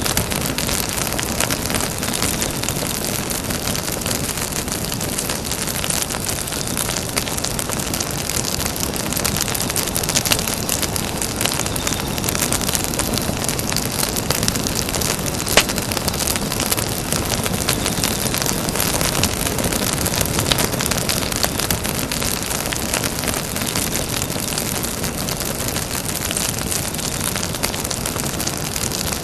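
Campfire burning: a steady hiss with frequent small crackles and pops of burning wood, and one sharper pop about halfway through.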